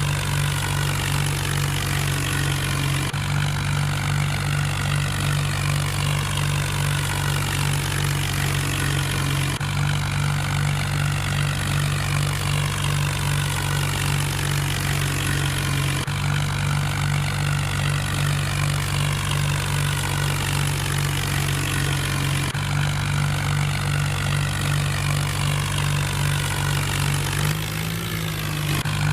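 Mahindra tractor's diesel engine running at a steady speed, its tone shifting slightly and abruptly about every six seconds.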